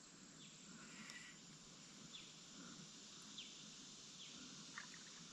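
Near silence: faint outdoor ambience with a few faint, short high chirps scattered through it.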